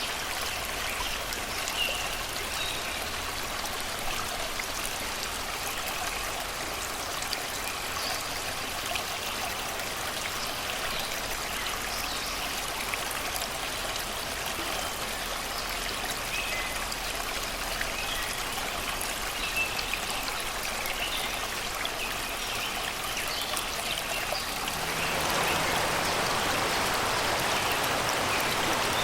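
Shallow river water rushing and babbling over rocks, a steady flow with faint scattered bird chirps over it. About 25 seconds in, the water grows louder and fuller.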